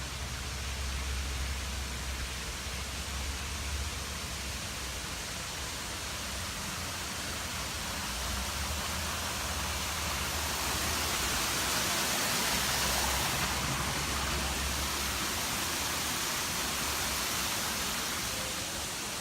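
Waterfall rushing, a steady hiss of falling water that grows louder about ten seconds in, with a low rumble under it for most of the time.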